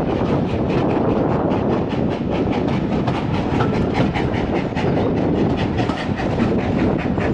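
Heritage railway carriage running along the line: a steady rumble with a fast, even clatter of wheels and coach running over the track.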